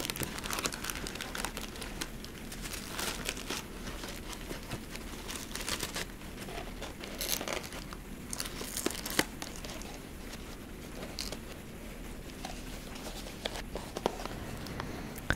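Packaging crinkling and tearing close to the microphone: irregular, papery crackles, with heavy rain as a steady hiss behind.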